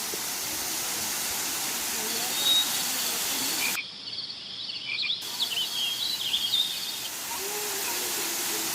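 Steady rushing of a waterfall, with high chirping calls of small birds or insects coming and going in the middle. The hiss cuts out abruptly for about a second and a half midway, then returns.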